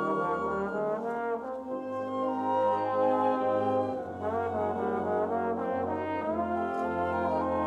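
School concert band playing, led by brass with trombones prominent: held chords over a low bass line, the harmony shifting every second or two.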